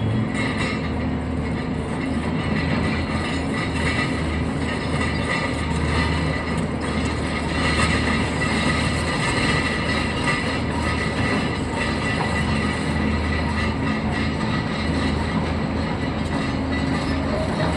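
Machinery running steadily, a continuous mechanical whir with rattling and a low hum underneath.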